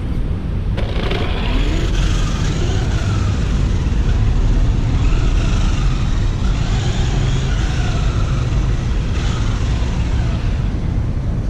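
Remo Hobby Dinosaurs Master 5 RC monster truck running, its electric motor and drivetrain whining in a pitch that rises and falls again and again as the throttle is worked, over a steady low rumble.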